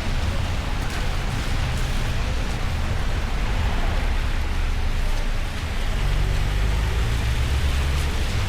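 Steady hiss of rain with a low rumble of street traffic, the rumble growing heavier about six seconds in.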